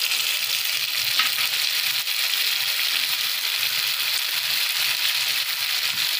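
Browned sliced onions frying in hot oil in a nonstick kadai, giving a steady sizzle, as ground masala paste is added and stirred in with a spatula.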